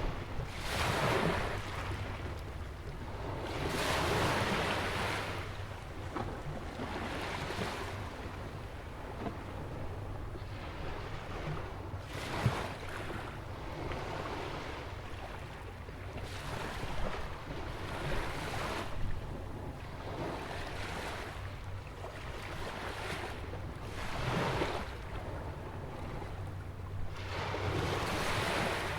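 Ocean waves breaking and washing in against a rock jetty and sandy beach, a fresh surge every few seconds, with two brief sharper splashes. A steady low rumble of wind on the microphone runs beneath.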